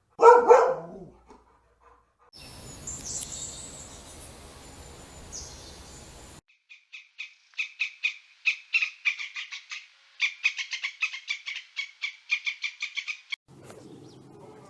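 A dog barks once. Then come separate bird-call clips: high whistled calls over background hiss, and then a long run of rapid, evenly repeated chirps, several a second, which stops suddenly.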